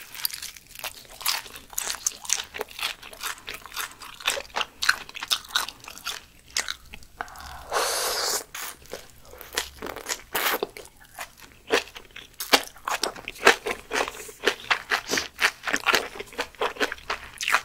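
Close-miked crunchy chewing, beginning with a bite into crispy fried pork (guobaorou), with a slurp of noodles about eight seconds in.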